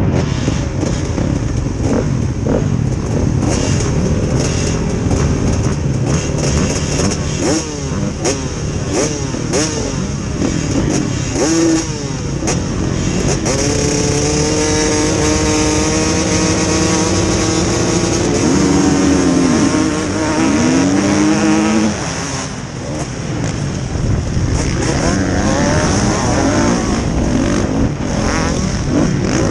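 Several motocross bikes running at once, their engines revving up and down over one another. About halfway through, one bike's engine is held at steady high revs, then drops away two-thirds of the way in.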